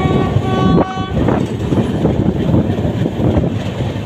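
Train horn sounding one steady note and cutting off about a second in. It is followed by the loud, steady rumble of a moving passenger train, heard from the coach's open doorway.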